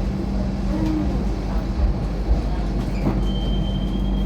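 MTR Light Rail car running, heard from inside: a steady low rumble of wheels on track with a constant motor hum. About three seconds in, a steady high-pitched tone comes in.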